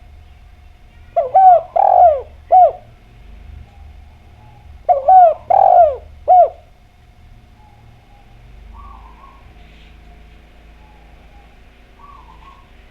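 Spotted dove (derkuku/tekukur) cooing: two phrases of about four coos each, a few seconds apart. Fainter bird calls follow near the end.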